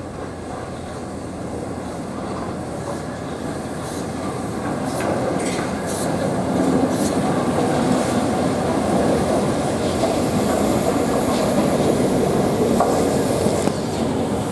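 Passenger train hauled by A1 Pacific steam locomotive 60163 Tornado passing slowly on a curve: a steady rumble of wheels with clicks over the rail joints. It grows louder about halfway through as the coaches run close by.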